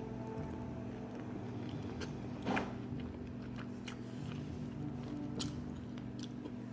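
A person chewing a mouthful of spaghetti, with scattered small mouth clicks and one louder click about two and a half seconds in, over a steady low hum.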